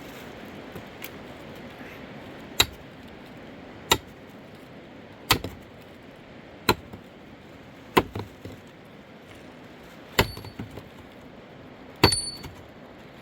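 Axe chopping wood: seven sharp, single blows spaced about a second and a half apart, the last two with a brief ringing edge.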